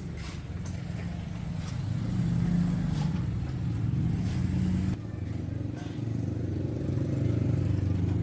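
Motorcycle engine running steadily. It dips and drops in pitch about five seconds in, then runs on.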